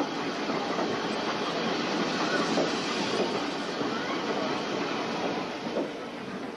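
Train running along rails: a steady rattle of wheels on track.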